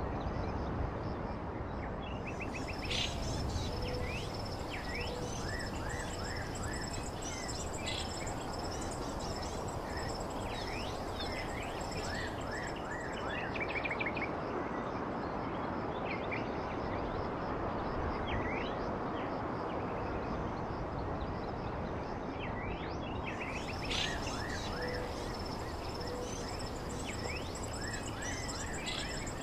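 Birds chirping and trilling, many short calls coming one after another over a steady background hiss, with a thin continuous high-pitched whine alongside.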